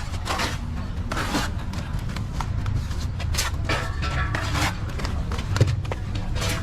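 Short scraping strokes, irregularly spaced, typical of a plastering trowel working mortar on a wall, over a steady low rumble.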